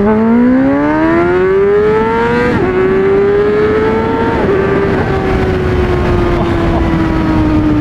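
Honda CBR600RR's inline-four, through an MGP Growler exhaust, accelerating hard under a rider. The engine note climbs steadily and drops with an upshift about two and a half seconds in, climbs again and shifts once more, then slowly falls as the throttle eases. Wind noise runs underneath.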